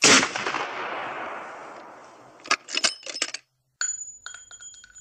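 A single loud bang with a long fading tail, followed near the middle by a few sharp clicks, then a run of metallic clinks with a high ringing that dies away.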